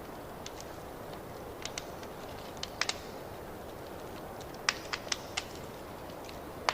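Wood fire in a fireplace crackling: irregular sharp pops and snaps over a steady low hiss, with small clusters of louder pops near the middle and again near the end.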